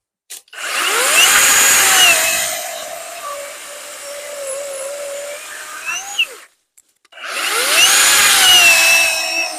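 Worx WG385E cordless electric chainsaw whirring up and cutting through a log, its motor pitch sagging and wavering under load, then stopping about six and a half seconds in. It starts again a moment later, rising in pitch, for the next cut.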